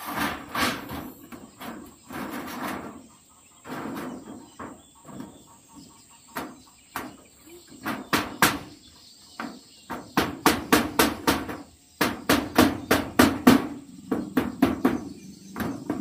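Hammer driving nails: scattered knocks at first, then from about halfway quick runs of sharp strikes, around five a second. A steady high cricket drone runs underneath.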